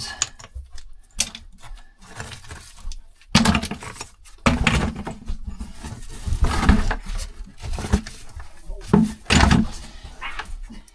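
Rocks clattering and knocking as they are picked up from rubble and dropped into a hauling bucket by hand, in irregular bunches of clinks with short pauses between.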